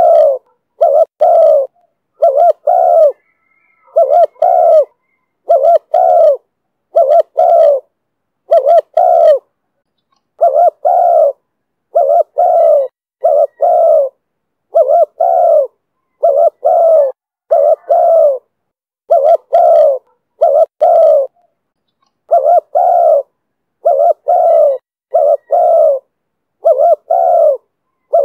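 Spotted dove cooing in the 'thổ thúc' style: a long run of short, low coos in quick pairs and triplets with brief pauses between.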